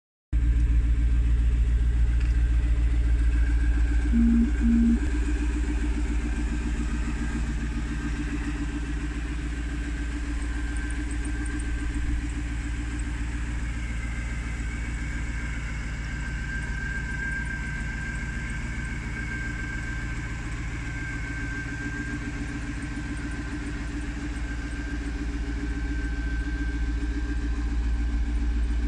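1999 Jaguar XKR's supercharged 4.0-litre V8 idling steadily, with a thin steady whine above the engine note. Two short beeps sound about four seconds in.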